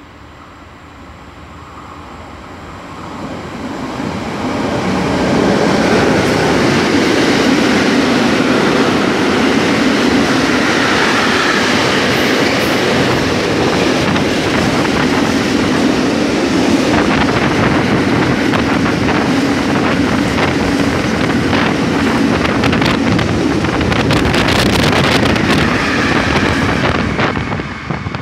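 Freight train approaching and passing at speed right beside the platform. The noise swells over the first few seconds, then holds as a steady loud rush of wagons going by, with wheels clacking over rail joints.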